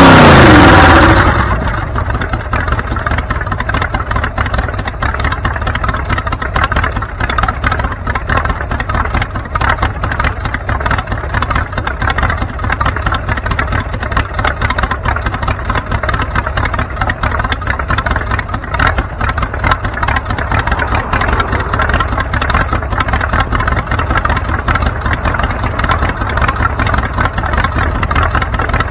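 Car engine and road noise running steadily, after a very loud stretch in the first second or so whose pitch falls away.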